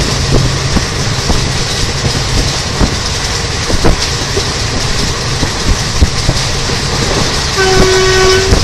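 A fast express train running by with loud rail noise and scattered wheel clicks. Near the end, the twin-tone horn of a WAP-4 electric locomotive sounds its higher note, held for about a second.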